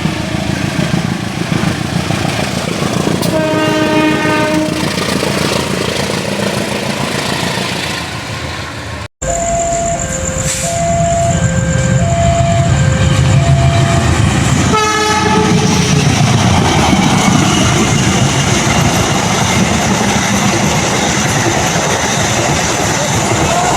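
Trains running by, heard in two cut-together clips. In the first, a train horn sounds for about two seconds over steady track rumble. In the second, a two-tone alternating signal repeats for several seconds, then a short horn blast and the steady rumble of a passing train.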